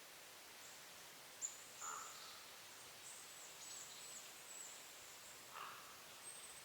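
Small woodland songbirds giving thin, very high-pitched calls, several in quick succession with short downward flicks, over faint forest ambience. A couple of lower, brief sounds come about two seconds in and near the end.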